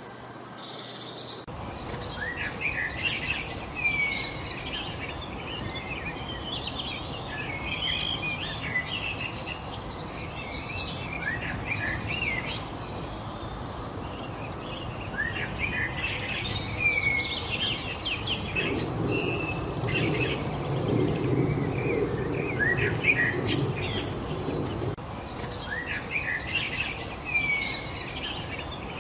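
Several songbirds singing and chirping in a busy chorus of short whistles and trills over a steady background hiss. About two-thirds of the way through, a low rumble swells for several seconds and fades.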